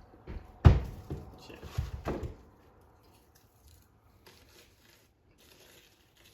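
A few knocks and rustling handling noises in the first two and a half seconds, the loudest a thump about two-thirds of a second in.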